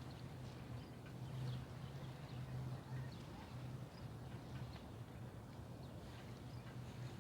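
Faint outdoor ambience: a low, steady hum that swells and dips, with scattered short, high chirps of small birds.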